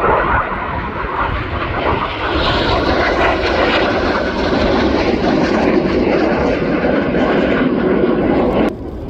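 Aircraft engine noise from a display plane flying past, loud and steady, swelling a couple of seconds in and cutting off abruptly near the end.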